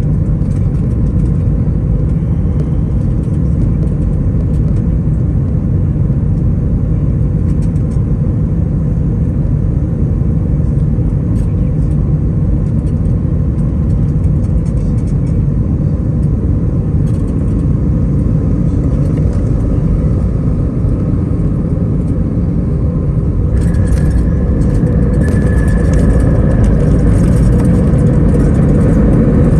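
Steady low rumble of jet engines and airflow heard inside an Airbus A320-200's cabin during landing. About 24 seconds in, a higher whine joins and the noise grows a little louder.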